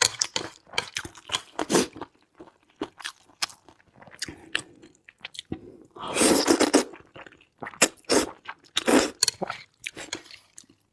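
Close-miked chewing and biting of crunchy food, in irregular crisp crunches, with a louder, longer stretch of crunching about six seconds in.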